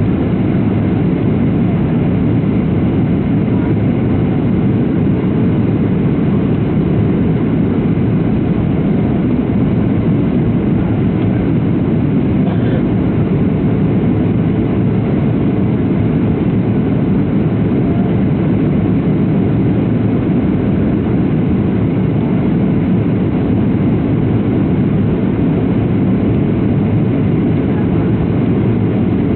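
Steady cabin noise inside a Boeing 737-700 airliner: the drone of its CFM56 jet engines and airflow, even and unchanging, with most of its weight in the low end.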